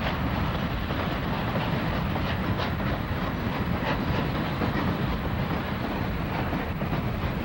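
Passenger coaches of an excursion train rolling across a steel trestle bridge: a steady rumble, with the wheels clicking irregularly over the rail joints.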